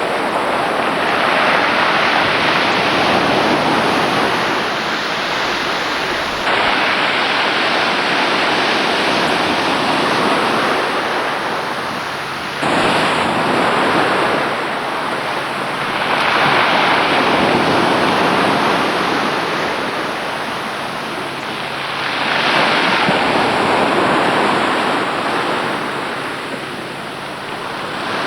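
Sea waves washing in, the rush swelling and fading every few seconds.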